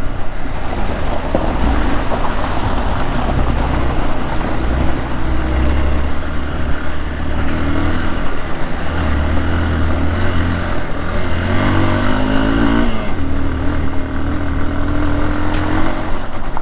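Hero XPulse 200 single-cylinder motorcycle engine running while riding, over wind noise on the helmet camera. The engine revs up with a climbing pitch about twelve seconds in, then settles back.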